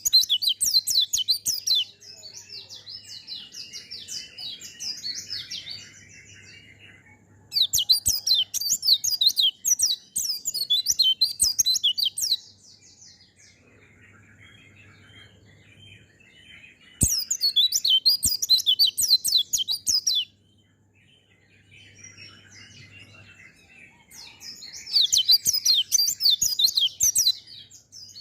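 White-eye (pleci) singing in four long, fast, high-pitched twittering bursts of a few seconds each, with quieter chattering between them.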